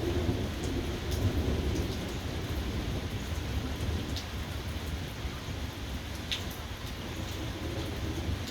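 Steady rain falling, with a low rumble of thunder underneath that is strongest in the first couple of seconds and then eases. A few single drips strike close by.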